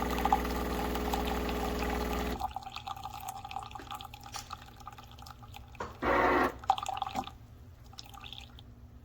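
De'Longhi TrueBrew coffee maker running with a steady hum that cuts off a little over two seconds in. Coffee then drips and ticks, with a brief louder hiss about six seconds in and a click just after it.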